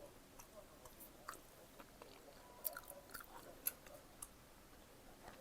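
A person chewing bacon-potato pizza with a cheese crust: soft, irregular mouth clicks of chewing, with two sharper clicks past the middle.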